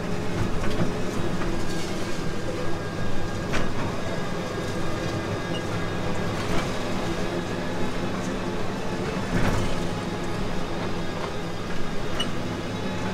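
Small amusement-park train heard from on board its open wagon as it rolls along: a steady running hum with rattling, and a few sharp clicks from the wheels and wagon over the track.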